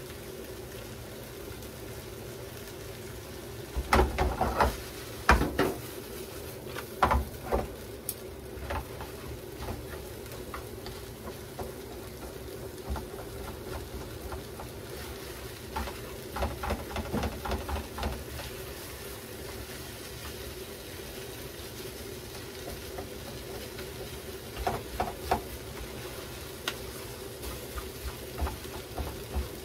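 Leftover vegetable stir-fry with egg sizzling steadily in a frying pan while long chopsticks stir it, scraping and clicking against the pan in several short bursts, the loudest about four to five seconds in.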